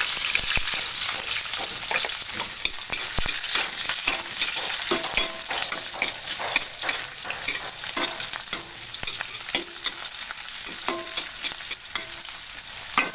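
Chopped garlic and onion sautéing in hot oil in a pan: a steady sizzle, with frequent light clicks and scrapes of a utensil stirring against the pan.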